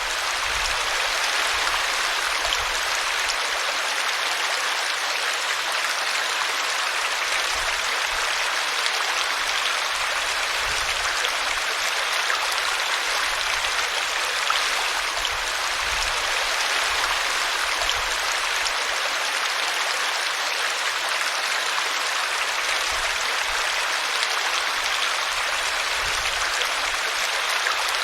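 Small brook running and splashing over a tree root: a steady rush of water, with soft low rumbles now and then.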